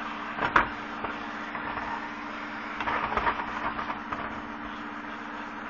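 Chicken and vegetables in sauce being tossed in a pan: a utensil scrapes and knocks against the pan about half a second in and again around three seconds. Under it runs a steady low hum with a hiss.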